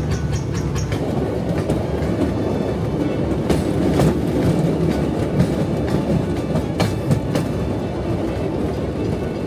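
Railroad speeder motorcar running along the track: a steady low rumble of the car on the rails, with sharp clicks in pairs as the wheels cross rail joints, a few seconds in and again later on.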